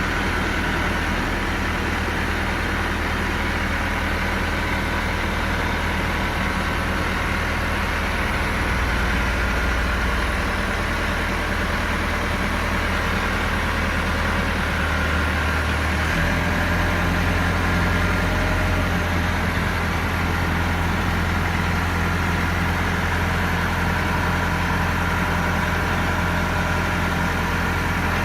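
Massey Ferguson MF 375 tractor's diesel engine running steadily, its note shifting slightly about 16 seconds in.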